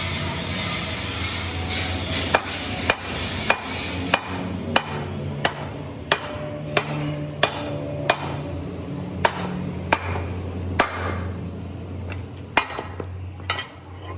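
Hammer blows on metal during a truck axle repair: sharp ringing strikes, roughly one every two-thirds of a second, starting about two seconds in and closing with a quicker run of strikes near the end, over a steady low hum.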